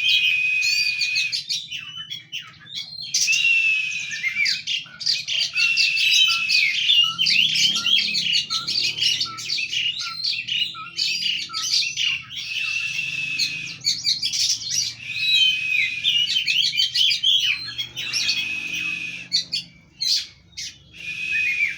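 Oriental magpie-robin in full song: a loud, varied run of clear whistles, slurred notes and rapid trills, delivered in long phrases broken by short pauses.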